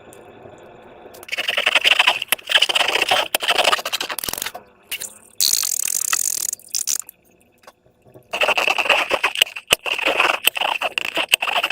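Slime being squished and worked by hand, giving dense crackling and popping in two long spells, with a short hiss between them.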